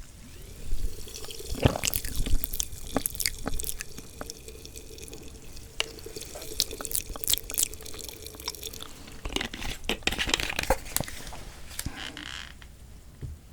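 Close-miked eating sounds from a spicy mixed-noodle and sea-snail dish: wet chewing, slurping and smacking, with sharp clicks in irregular clusters. There is a quieter lull near the end.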